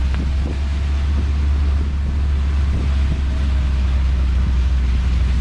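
Open-topped Moke driving along, its engine running steadily under wind noise buffeting the microphone.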